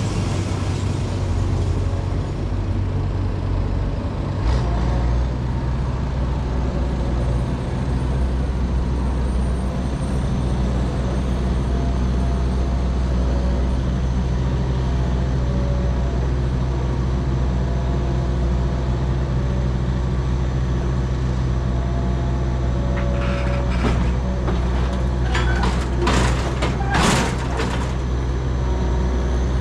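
A combine harvester's engine running steadily, its note dropping and settling about four seconds in, with a few metallic clanks and knocks near the end.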